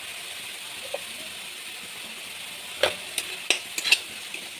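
Onion-and-spice paste sizzling in oil in a metal kadai with a steady hiss. From about three seconds in, a spatula scrapes and knocks against the pan in a quick run of strokes as the masala is stirred.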